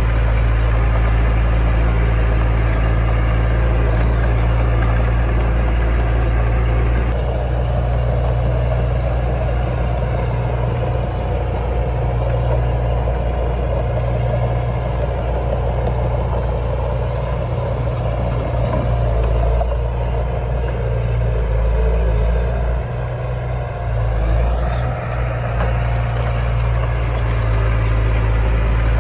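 Heavy diesel engine of earth-moving machinery running steadily, a deep even hum, with a brief dip in loudness near the end.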